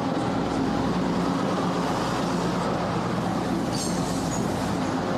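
Diesel passenger train passing at close range, a steady engine drone and the rumble of wheels on the rails.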